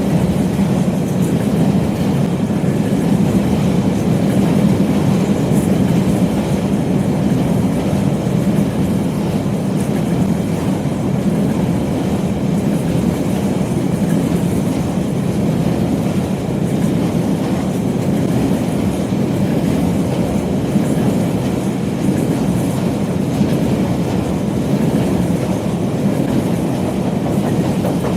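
A train rolling past on the 3ft 6in gauge line, a steady loud rumble of wheels on the rails.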